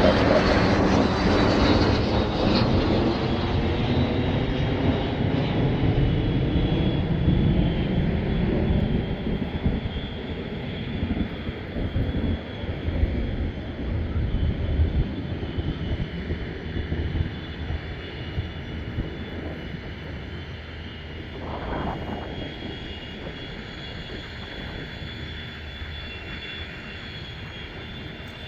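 Boeing 717's two rear-mounted jet engines on landing: a loud rumble with a steady high whine at first, fading gradually as the airliner rolls away down the runway.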